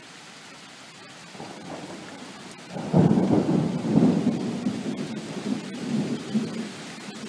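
Thunder: a low rumble builds about a second in, breaks into a loud peal about three seconds in, then rolls on and slowly fades, over steady rain.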